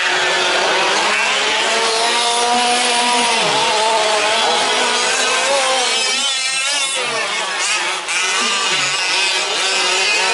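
Several 1/5-scale RC trucks' small two-stroke petrol engines buzzing as they race, their pitches rising and falling with the throttle. About six seconds in, one engine warbles and then revs up steeply.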